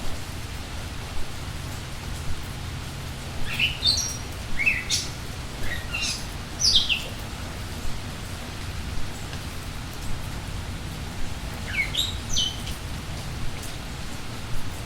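Steady rain with songbirds chirping: two clusters of short, quick falling notes, the first a few seconds in and the second near the end.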